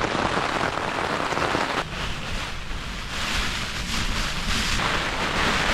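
Strong wind gusting across the microphone: a heavy low rumble of wind buffeting with a rushing hiss that swells and eases, rising again about two seconds in and once more near the end.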